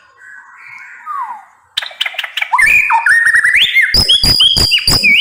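White-rumped shama singing: a soft whistled phrase, then from about two seconds in a loud, rapid song of clear whistles, rising slurred notes and sharp clicking notes.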